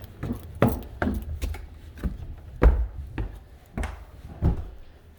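Footsteps thudding on a bare wooden floor, about eight steps at a walking pace.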